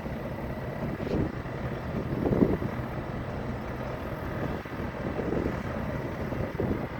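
Heavy vehicle engine noise: a steady low rumble with a few louder swells, the loudest about two and a half seconds in.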